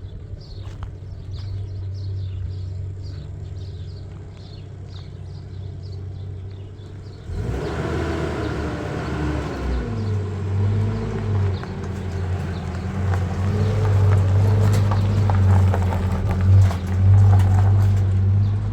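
A vehicle engine: a low steady hum, then about seven seconds in it gets suddenly louder, its pitch rising and falling as it revs, and it settles into a steady low rumble that grows louder towards the end. Before the engine grows loud there is fast, even high chirping.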